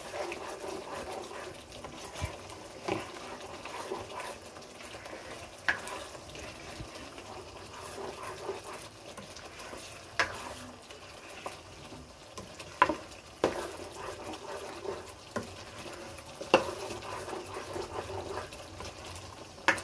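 Thick chicken karahi gravy frying and bubbling in a nonstick karahi while a spatula stirs it, with occasional sharp clicks and pops. The masala is being fried down until the oil separates.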